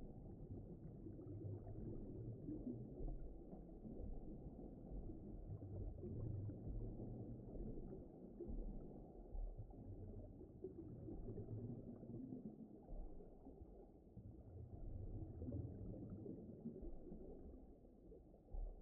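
Low, muffled rumbling underwater ocean ambience, swelling and easing in slow waves with nothing bright or high-pitched in it.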